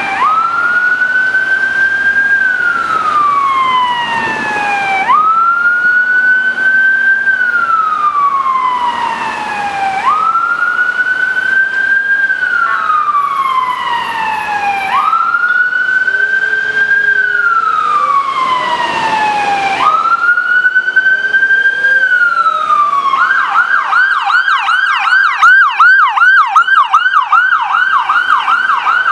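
Ambulance electronic siren on wail: five slow cycles, each rising quickly and then falling over about five seconds. Near the end it switches to a fast yelp of three or four sweeps a second.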